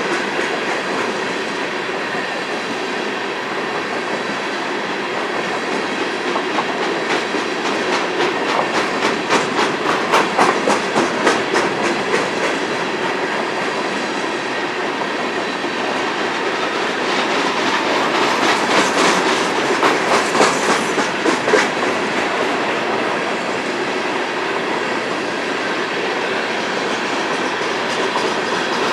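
Empty BNSF coal hopper cars rolling past at speed: a steady rumble of steel wheels on rail with rhythmic clickety-clack. The clicking grows louder and quicker-sounding about a third of the way in, and again a little past the middle.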